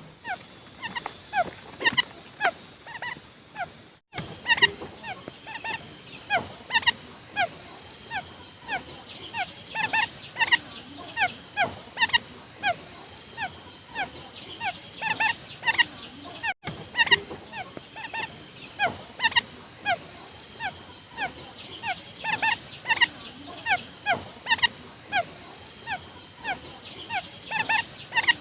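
Quail calling: a rapid, continuous run of short downward-sliding notes, several a second, played as a lure call. A steady high hiss runs behind them, and the sound drops out for an instant about 4 seconds in and again about 16 seconds in.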